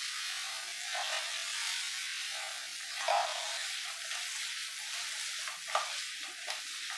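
Chicken liver sizzling in a hot non-stick frying pan on high flame as the pan is shaken and tossed, a steady hiss with a few brief louder swishes as the pieces shift.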